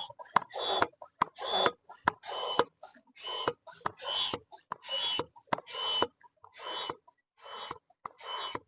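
Manual air pump worked in a steady rhythm of about two strokes a second, each stroke a short rush of air with a thin squeak and a small click.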